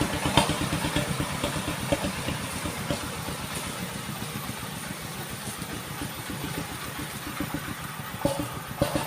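An engine idling with a rapid, even chugging, easing slightly in level, with a few sharper knocks near the end.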